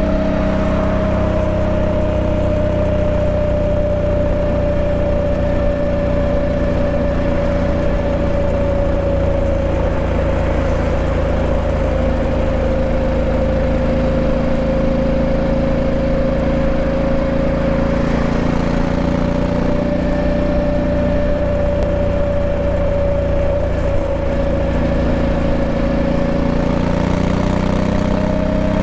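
Honda Africa Twin 1100's 1084 cc parallel-twin engine running steadily, with a clear tone in its sound that sags slightly and climbs back near the end.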